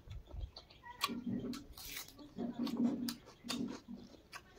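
A person eating: chewing with repeated wet mouth clicks and smacks.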